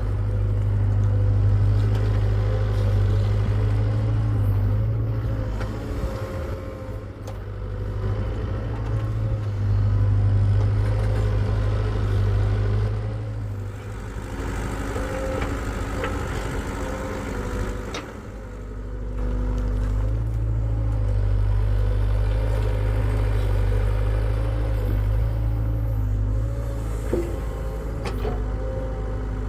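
Hitachi EX75UR excavator's diesel engine running steadily, its loudness swelling and easing every few seconds as the machine works, with a few sharp knocks.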